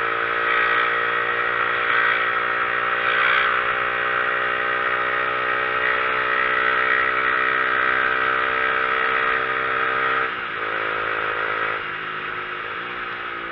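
Motorcycle engine running at a steady pitch while riding, with wind and road noise over it. About ten seconds in, the engine note drops and the sound gets quieter.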